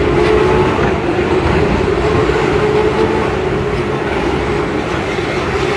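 Helicopter running overhead as a loud, steady rumble with a constant hum, with no rise or fall in pitch.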